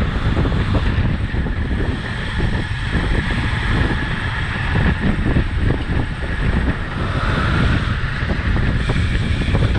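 Wind buffeting the microphone of a camera on a moving bicycle: a loud, steady low rumble with a hiss above it.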